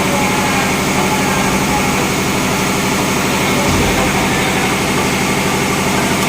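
Marine diesel engine running steadily in a tugboat's engine room, a loud, even, low drone with a fast regular pulse.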